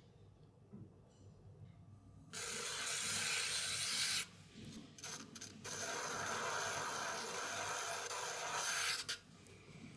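Two stretches of steady scraping or rubbing on clay at a pottery wheel: the first about two seconds long, the second about three and a half. Each starts and stops abruptly.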